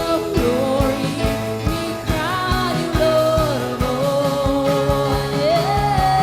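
A worship band playing a slow song with a sung vocal line that glides and holds long notes, over sustained keyboard-like chords and a steady drum beat.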